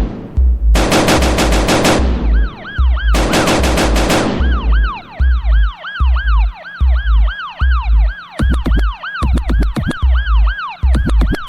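Electronic dance music: a heavy kick-drum beat under two bursts of rushing noise, then, from about two seconds in, a siren-like synth wail rising and falling about twice a second. Quick percussive hits crowd in near the end.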